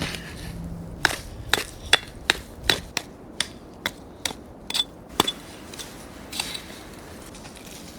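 A hand tool striking hard about eleven times, two or three blows a second, like hammering or chopping, stopping about five seconds in.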